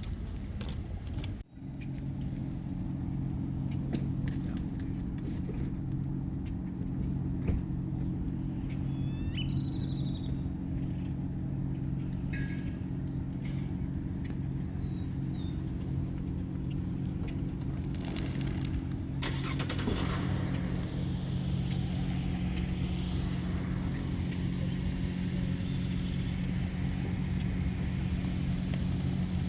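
Steady low motor hum, with a few short bird chirps about a third of the way in.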